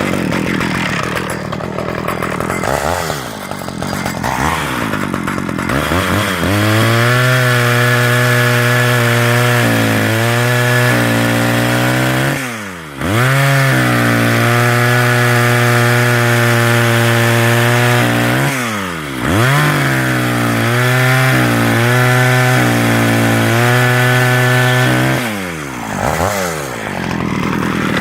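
Stihl 010 AV chainsaw's 37 cc single-cylinder two-stroke engine running, revved up and held at high speed for several seconds at a time, dropping back toward idle and revving up again between runs.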